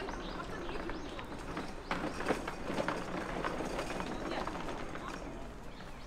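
Birds chirping in short, quick calls over a background of outdoor noise, busiest in the middle.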